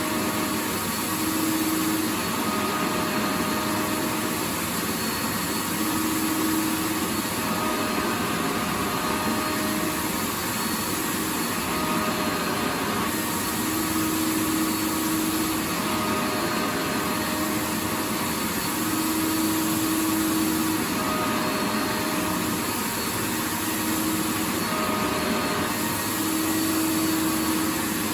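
Vacuum cleaner running continuously: a steady rushing hiss with a motor hum whose pitch line fades in and out every few seconds.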